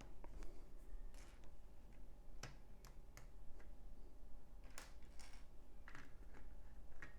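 LEGO bricks clicking as they are handled and pressed together: about a dozen sharp little clicks at irregular intervals.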